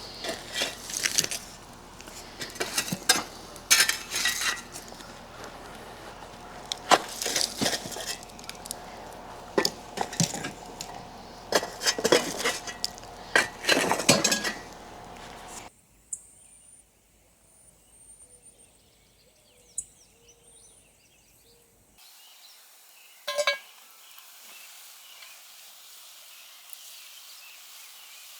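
Dishes and utensils clinking and clattering repeatedly for about fifteen seconds, then a sudden drop to a much quieter stretch with faint high chirps.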